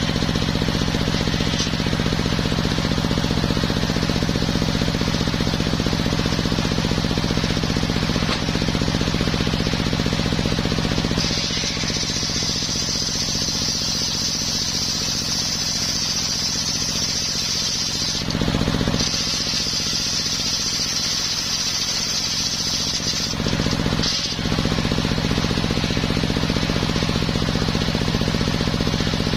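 Homemade circular sawmill running steadily, its engine giving a constant throbbing drone. A high-pitched whine from the blade cutting coconut wood comes in about a third of the way through, breaks off briefly, returns, and stops about three-quarters of the way through.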